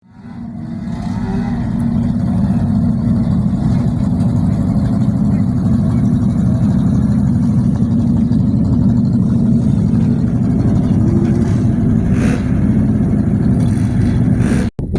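Land speed racing vehicle's engine running loudly and steadily. It fades in over the first couple of seconds and cuts off abruptly near the end.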